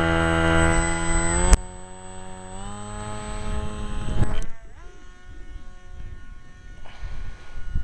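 Small electric RC plane motor (21 g, 1800KV brushless) spinning a 6x4 propeller, a steady whine of stacked tones. About one and a half seconds in there is a sharp click and the sound drops much quieter. Around four and a half seconds the whine falls in pitch and settles low and steady.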